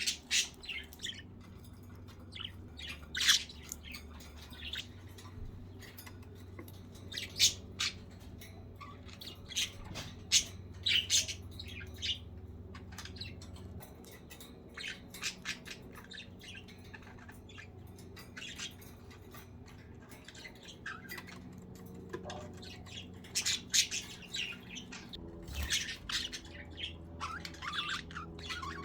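Several pet budgerigars chirping and squawking in short, sharp calls scattered irregularly, some louder than others, over a steady low hum.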